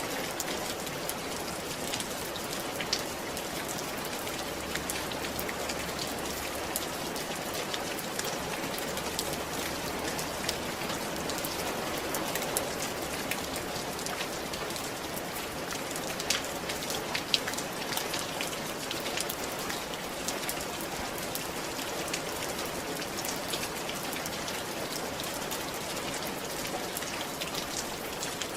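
Steady rain falling on a roof, with a constant hiss and many scattered sharp drop ticks, a few louder single drips standing out now and then.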